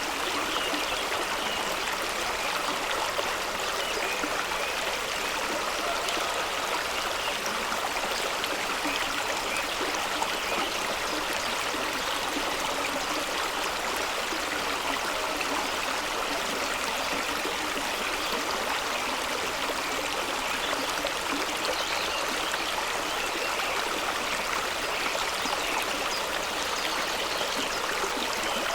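Fast-running stream rushing and splashing over rocks, a steady, even rush of water with a gurgle in it.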